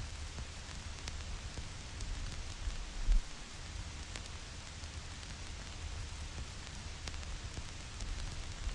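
Vinyl record crackle: a steady surface hiss with scattered sharp pops and clicks over a low rumble, and one brief low thump about three seconds in.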